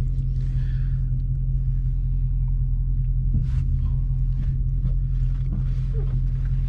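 Steady low drone inside the cabin of a Dodge Charger Scat Pack on the move: its 6.4-litre HEMI V8 running under way, along with road noise.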